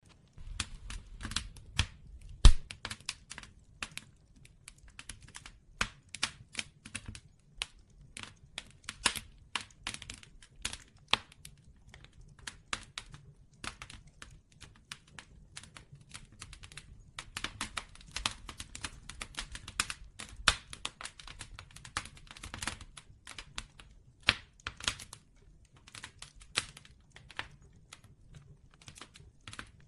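Bonfire crackling: irregular sharp pops and snaps of burning wood over a low rumble, with one loud pop about two and a half seconds in.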